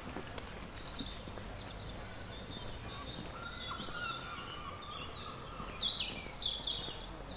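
Songbirds chirping in the trees in quick runs of high notes, busiest about six seconds in, with a held whistling note in the middle, over a steady hum of outdoor background noise.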